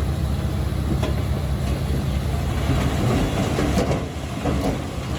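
Crawler bulldozer's diesel engine running steadily, with its steel tracks clanking and rattling, loudest around the middle.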